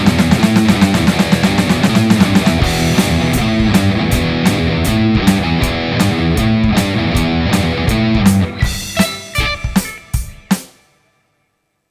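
Heavy rock music on distorted electric guitar and drum kit. Fast drumming in the first few seconds gives way to spaced accented hits, then a run of stop-start hits, and the band cuts off suddenly into silence near the end.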